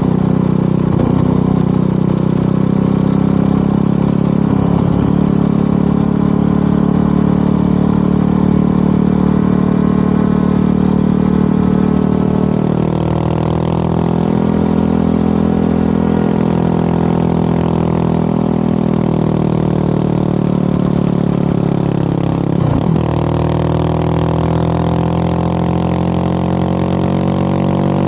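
Motorcycle engine and exhaust running under way. The engine note holds steady at first, then from about twelve seconds in its pitch rises and falls as the throttle changes. There are a few short knocks along the way.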